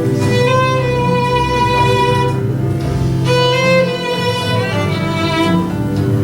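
Violin playing a slow melody of two long held notes over a sustained low accompaniment.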